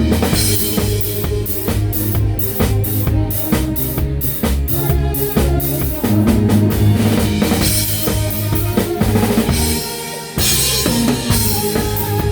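A live band playing, led by a drum kit with kick drum, snare and rimshots over sustained bass and instrument notes. Just past ten seconds the music briefly drops back, then the full band comes back in.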